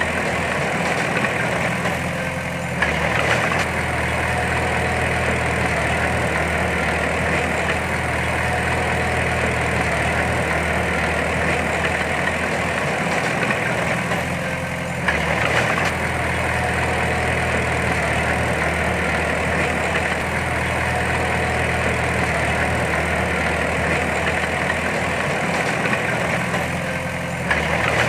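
Heavy diesel engine of earthmoving machinery running steadily, its note shifting briefly three times, about twelve seconds apart.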